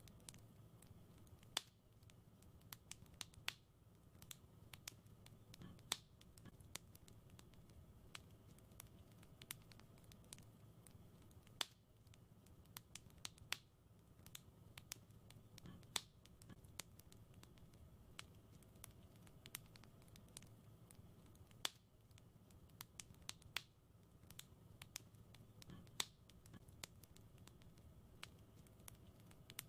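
Wood fire crackling in a fireplace: irregular sharp snaps and pops, a few louder ones every couple of seconds, over a faint low rumble.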